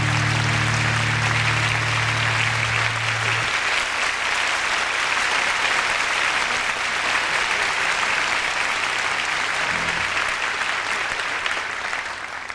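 Concert audience applauding loudly at the close of a jazz piece, over a held low note from the band that stops about three and a half seconds in. The applause thins out near the end.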